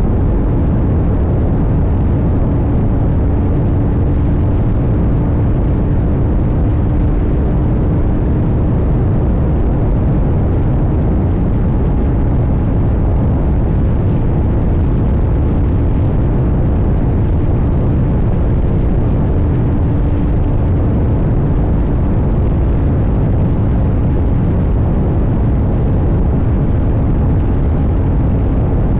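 CFMoto 800NK's parallel-twin engine running at a steady cruise under heavy wind rush on a tank-mounted microphone, its engine note holding nearly even throughout.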